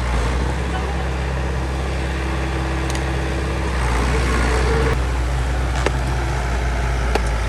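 Bulldozer's diesel engine running steadily under load, rising slightly in pitch and level about halfway through. A few sharp knocks come in the second half.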